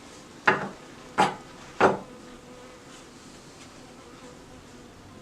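Buckfast honeybees humming steadily in an open hive, with three sharp knocks about two thirds of a second apart in the first two seconds, from the beekeeper's tools working the hive frames.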